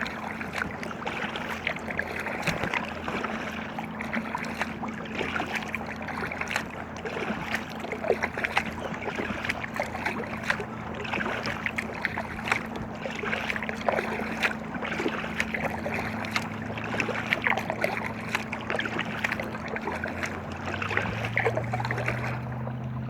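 Water splashing and lapping against an inflatable kayak as it is paddled, in many small irregular splashes. A steady low hum runs underneath, stepping up in pitch twice in the second half.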